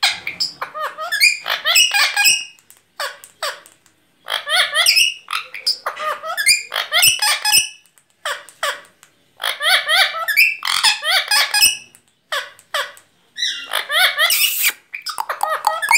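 A parrot chattering and squawking in a string of short, loud, high-pitched bursts, its calls swooping up and down in pitch.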